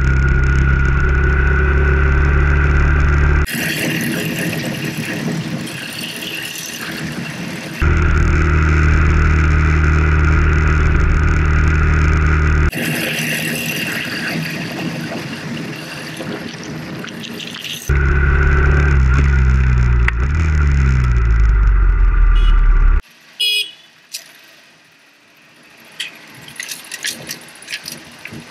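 Motorcycle engine running, recorded by two bike-mounted action cameras whose sound cuts back and forth every four or five seconds: one gives a loud, steady low engine hum with a whine, the other a quieter, hissier engine sound. Near the end the engine note falls as the bike slows, then the sound drops suddenly to a faint background with light clicks and rattles.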